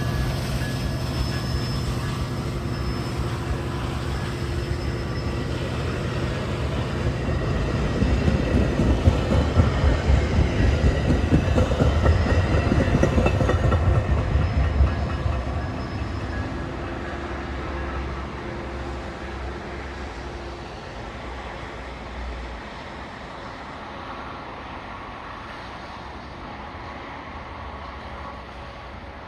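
Metra commuter train running past and away: steady diesel locomotive hum at first, then louder wheel clatter over the rails for several seconds, fading away as the train leaves.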